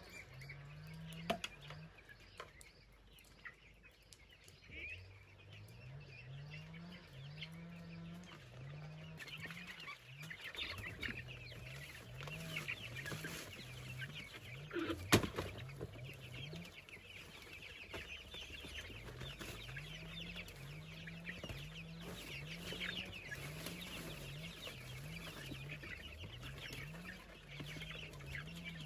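Chickens clucking in a low, repeated rhythm, with high chirping over it for much of the time. A single sharp knock comes about halfway through.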